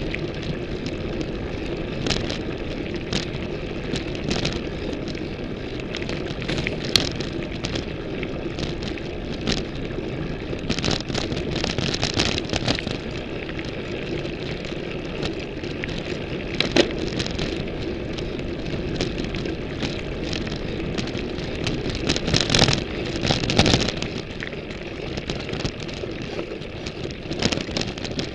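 Ibis Mojo HD full-suspension mountain bike riding over a rough trail, picked up through the frame: steady rolling and wind noise with frequent clattering knocks and rattles from the bike, busiest at several points in the ride.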